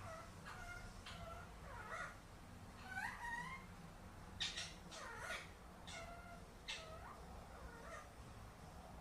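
Ringneck parakeet calling: a series of short pitched calls, some rising and some falling in pitch.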